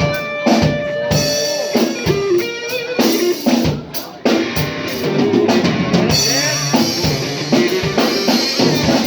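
Live band playing an instrumental passage: a drum kit with kick drum and rimshots keeps the beat, with guitar and held pitched notes over it.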